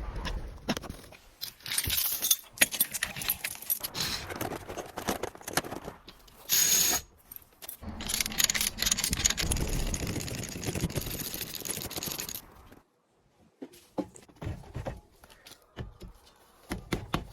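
Metal clinking, scraping and knocking of hand tools during body-panel work on an aluminium car fender, with a short loud burst about six and a half seconds in and a steady rushing noise from about eight seconds that cuts off abruptly after four or five seconds.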